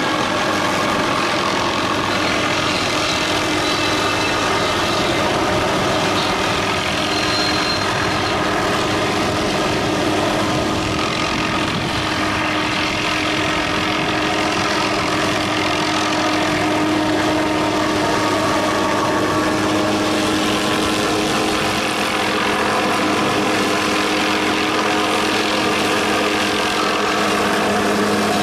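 Heavy machine's engine running steadily at a constant speed, with no revving or cutting bursts.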